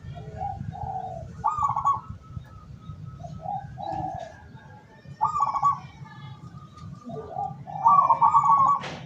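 Zebra dove (perkutut) cooing: three phrases of rapid trilled notes, with softer, lower coo notes in between. The last phrase is the longest, and a sharp click comes near the end.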